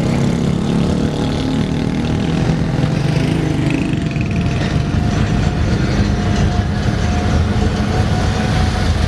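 Motor vehicle engine running steadily with low road rumble as the vehicle travels.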